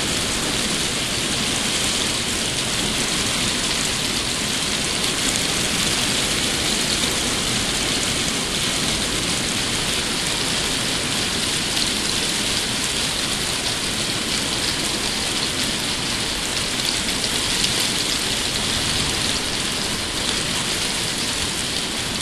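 Heavy rain pouring down steadily in a thunderstorm downpour, an even hiss of countless drops.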